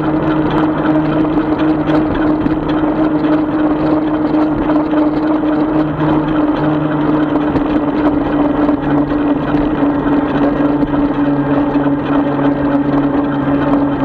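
A 36-volt electric bike's motor running at a steady cruise, giving one constant whine under steady road and wind noise.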